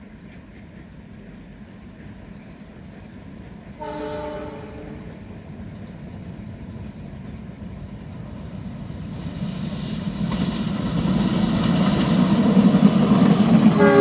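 Diesel locomotive-hauled train approaching. The locomotive's multi-tone horn sounds for about a second, about four seconds in. The rumble of the engine and the wheels on the rails then grows steadily louder, and the horn sounds again at the very end.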